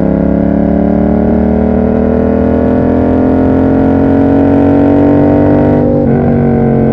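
Yamaha MT-07's 689 cc parallel-twin engine running through an SC Project aftermarket exhaust, pulling under acceleration with its pitch slowly rising. There is a brief break about six seconds in, typical of a gear change, before the engine pulls on.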